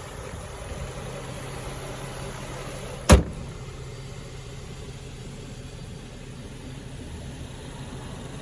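Infiniti Q60's 3.7-litre V6 idling steadily, with a single sharp, loud knock about three seconds in.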